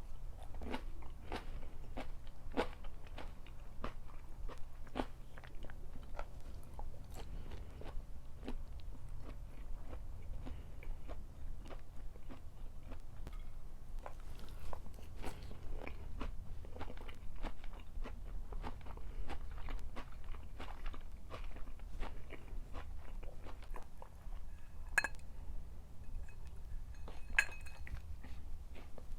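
Close-miked chewing and crunching of food, with many crisp bites packed together for the first several seconds and more spread out after. Two sharper clicks with a short ring come near the end.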